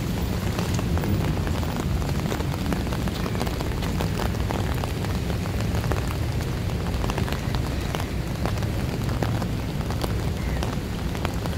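Steady rain falling on wet pavement, with a dense patter of close drops ticking and a low rumble underneath.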